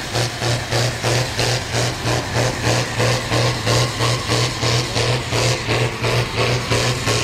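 Pulling tractor's engine idling with a steady low hum and a rhythmic pulse, about two to three beats a second.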